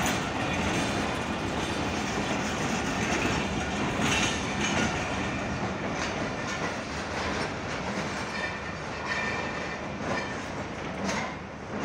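Passenger train coaches rolling past on the track, wheels clacking over rail joints with irregular sharp clicks. The sound eases as the last coach draws away.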